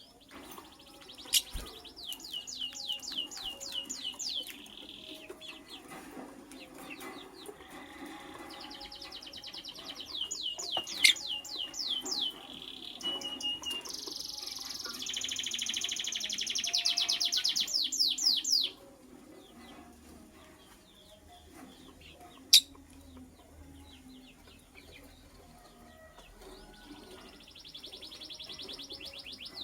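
Lovebird chirping in fast runs of short, high chirps, each run lasting a few seconds, loudest about midway and then breaking off abruptly, resuming near the end. A few sharp clicks stand out now and then.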